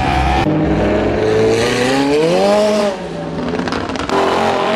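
A car engine revving hard. The pitch climbs to a peak about two and a half seconds in, then drops off. The sound dips briefly, then comes back loud just after four seconds.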